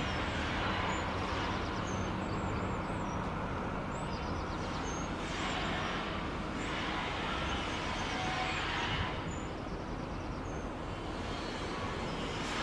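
Irish Rail 22000 class diesel multiple unit pulling away, a steady rumble of diesel engines and wheels on rail, with short high chirps over it.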